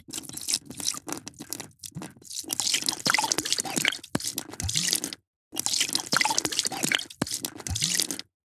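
A drink being poured, the liquid splashing and gurgling steadily. The sound cuts off abruptly twice, about five seconds in and again near the end.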